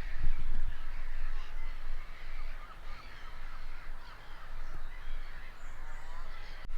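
A mixed chorus of many birds calling around a lake, short overlapping calls throughout, over a low rumble of wind on the microphone that is strongest in the first two seconds.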